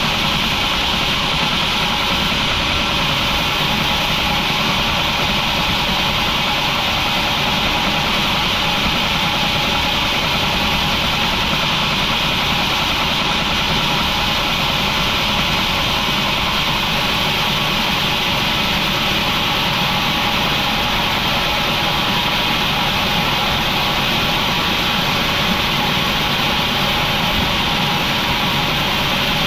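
Industrial sawmill machinery running steadily, a continuous even mechanical noise with a bright hiss that does not change.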